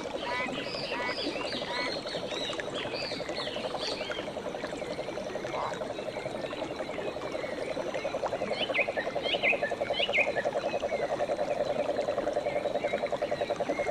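A chorus of frogs calling in a steady, rapid trill, with higher chirping and whistled calls from other frogs or birds over it. The chirps come thickest near the start and again past the middle.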